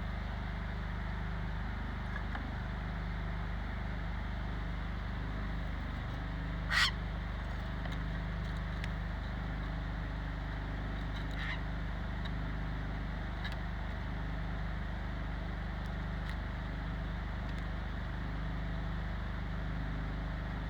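A bird gives one brief, sharp call about seven seconds in, and a fainter one a few seconds later, over a steady low rumble.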